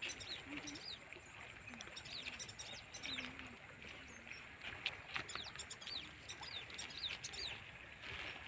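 Birds chirping: many short, quick, falling high chirps through the whole stretch, with a lower, wavering call now and then.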